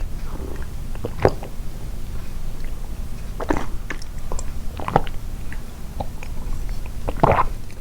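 Close-miked, amplified chewing of soft homemade sweets, with a few louder sharp mouth clicks at irregular intervals over a steady low hum.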